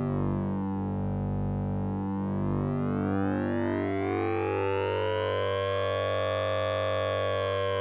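Synthesized sync and ring-modulated tone from the Orange Vocoder plugin: a steady low drone under a stack of tones that glide slowly down over the first second or two, then rise again over several seconds.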